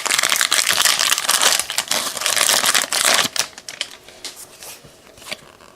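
Wrapper of a Bowman Platinum trading card pack being torn open and crinkled for about three seconds, then lighter rustles and ticks as the cards are handled.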